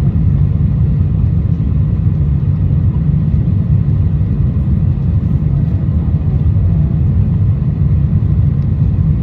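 Cabin noise inside a Boeing 747-400 climbing out after takeoff: a loud, steady low rumble of the engines and rushing air, even throughout.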